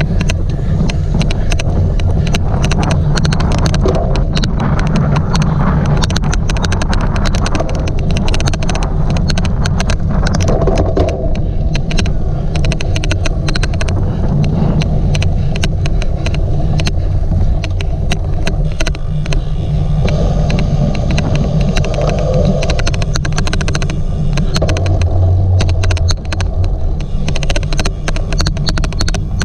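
Loud, steady riding rumble from a cyclocross bike in a race, with an odd clicking noise: many sharp clicks, irregularly spaced, running on throughout.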